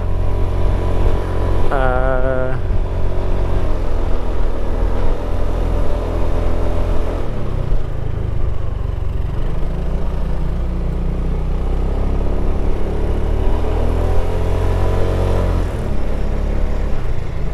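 Motorcycle engine running on the move, its revs rising and falling, with a drop in pitch about seven seconds in and another near the end.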